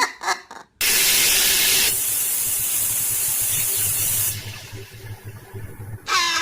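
A loud, steady hiss that cuts in suddenly about a second in, drops in level after about a second and eases off further after about three more, with a low hum beneath it. A high-pitched call starts near the end.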